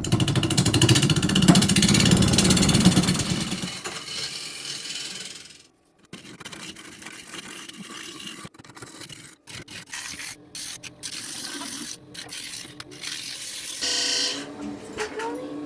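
Wood lathe spinning a wooden bowl while a tool works the surface, a loud scraping rush that fades out after about five seconds. Quieter stretches of the same scraping follow, cut off abruptly again and again.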